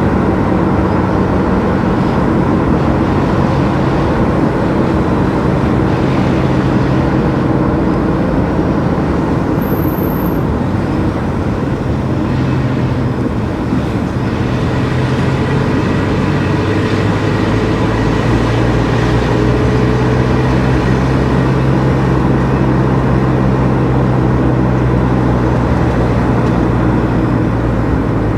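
Car driving: steady engine and road noise, the engine note stepping slightly lower about halfway through.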